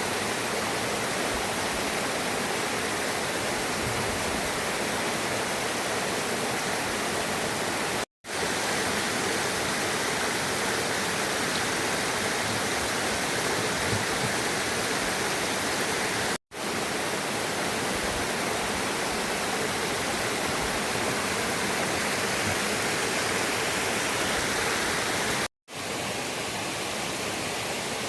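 Steady rush of flowing water, like a mountain stream or waterfall, cutting out to silence for an instant three times.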